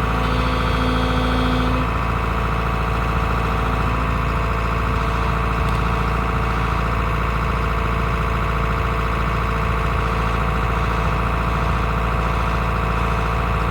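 Excavator running steadily, its engine and hydraulics giving an unbroken whine, with an added higher tone for the first couple of seconds.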